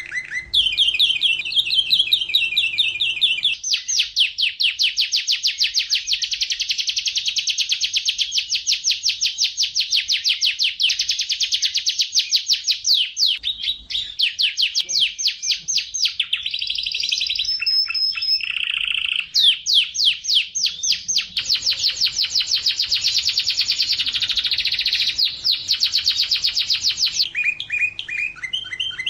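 Domestic canary singing a long, unbroken song of fast repeated trills, switching to a new trill every few seconds, with a few brief held whistles about two thirds of the way through.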